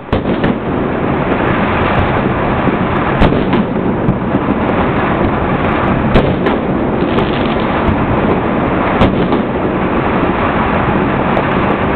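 A dense, continuous barrage of fireworks and firecrackers going off, a steady crackling rumble with distinct louder bangs about every three seconds.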